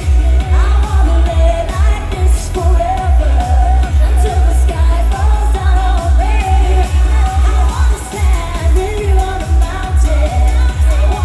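Live Eurodance pop music over a festival sound system: a heavy kick drum on a steady fast beat under a sung melody.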